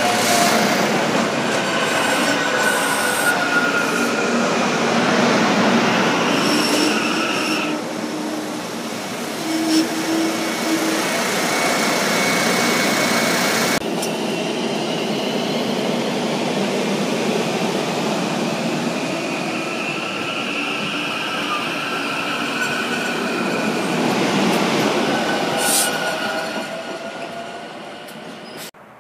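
SEPTA electric commuter train running past at close range: a continuous rumble and rattle of wheels on rail, with high thin squealing tones that come and go and slide in pitch. The sound breaks off suddenly about halfway and resumes at once, then cuts off near the end.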